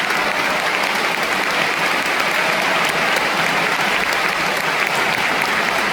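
Concert-hall audience applauding steadily after an orchestral encore.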